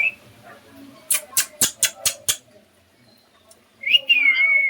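A run of about six sharp clicks, then a short whistle near the end that rises and then glides down.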